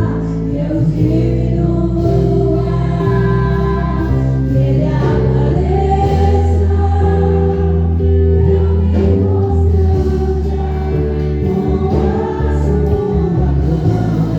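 Gospel worship music: voices singing together over sustained instrumental accompaniment with a steady, heavy bass.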